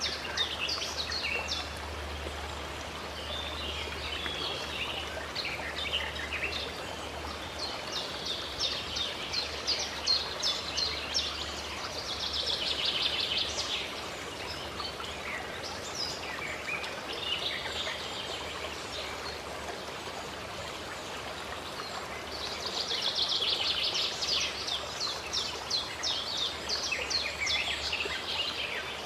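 Songbirds chirping and trilling over a steady rush of running stream water, with dense bursts of trilling about halfway through and again near the end.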